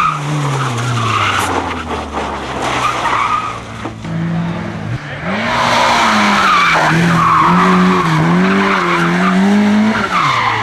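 Race car engine under hard driving. The revs fall away over the first two seconds, climb again about five seconds in, rise and fall several times, then drop near the end.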